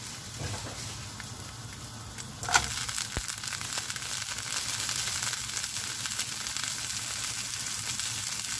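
Frozen zucchini pieces sizzling in hot oil in a frying pan. About two and a half seconds in, more frozen pieces land in the pan with a sharp clatter, and the sizzling grows louder and stays so.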